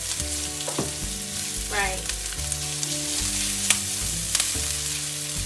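Onion, ginger, garlic and chilies sizzling in hot vegetable oil in a non-stick pan, stirred with a spatula that clicks against the pan a few times.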